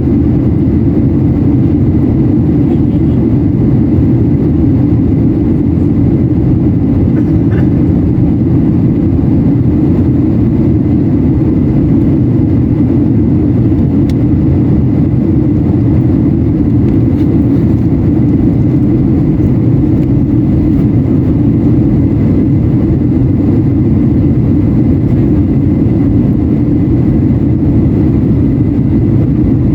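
Steady cabin noise inside a Boeing 737-800 in descent: a loud, even rumble of engines and airflow, with a faint high steady tone running through it.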